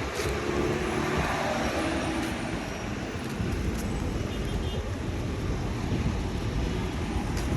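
City street traffic: a steady mix of engine and road noise from passing motor vehicles.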